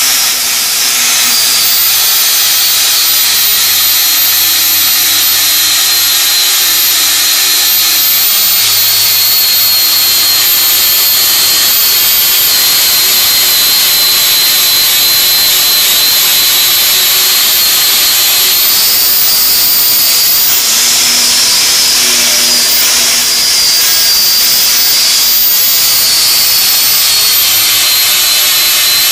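Angle grinder fitted with a Norton Vortex Rapid Blend non-woven disc, running continuously while grinding down an aluminium weld bead, with a steady high whine. The whine rises slightly in pitch about two-thirds of the way through and drops back near the end.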